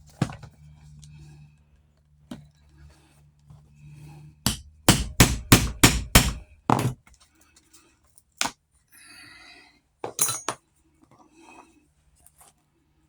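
Hammer blows in saddle work: a quick run of about eight strikes, then a single knock and a double knock a few seconds later.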